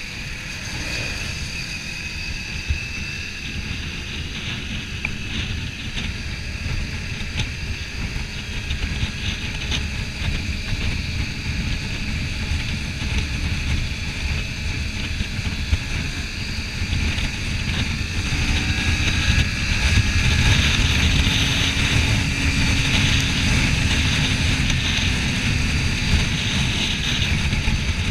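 Wind rushing over a motorcycle helmet microphone at road speed, with the Kawasaki Ninja 400's parallel-twin engine running underneath. The noise gets louder about two-thirds of the way through.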